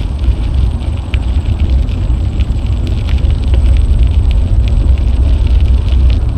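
Wind buffeting an action camera's microphone while cycling: a loud, steady low rumble, with scattered light clicks and rattles from the bicycle.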